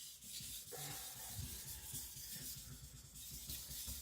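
Hard AEB-L steel knife blade being rubbed back and forth on a 1000-grit Naniwa Professional whetstone: a continuous gritty scraping made of quick, repeated strokes, with the stone cutting into the steel.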